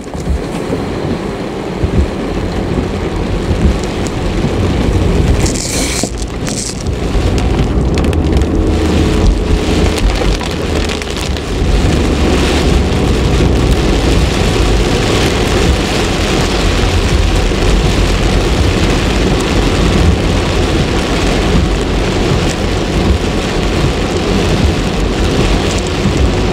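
Heavy rain pelting a car's roof and windshield, heard from inside the cabin as a dense, steady hiss. A heavier low rumble joins it from about seven seconds in.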